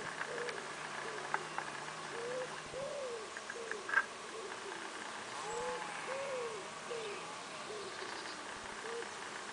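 A bird cooing: two phrases of several short, low, rounded hooting notes, about two a second, over a faint steady background hum, with a couple of sharp clicks in the first half.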